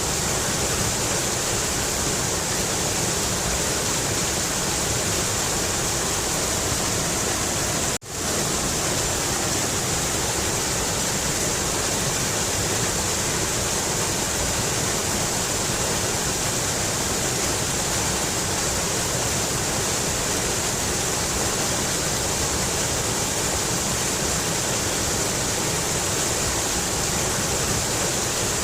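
Mountain river rushing steadily, an even wash of water noise. About eight seconds in it cuts out for an instant and comes straight back.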